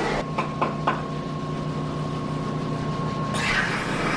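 Three quick light taps on metal in the first second, with a thin ringing tone that holds until a hissing grind starts near the end, over a steady low machine hum.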